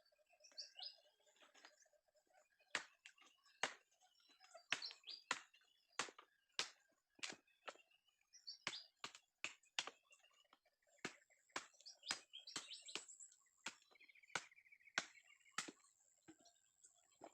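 Dry wood giving irregular sharp cracks and snaps, about one or two a second, as a campfire is made, with birds chirping faintly.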